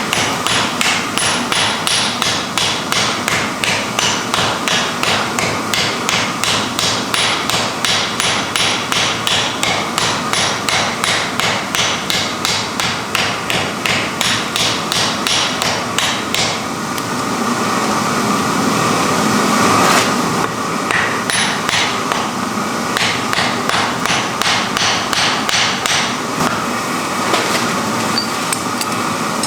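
Hammer blows forging wrought iron, even and quick at about three a second. They pause for a few seconds past the middle, then start again less regularly.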